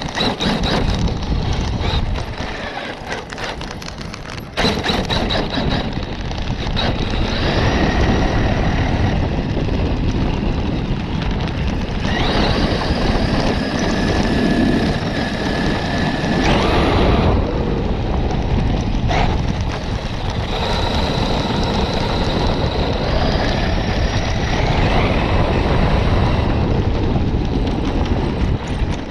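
Electric RC truck driving over rough ground: a high motor and drivetrain whine rises and falls with bursts of throttle over a steady rumble and rattle. It sounds close-up, as from a camera mounted on the truck.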